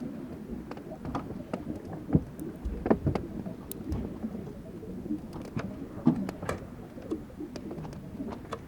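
Fláajökull glacier ice breaking and melting: irregular crackling and popping with a low rumble underneath, and a few louder cracks about two, three and six seconds in.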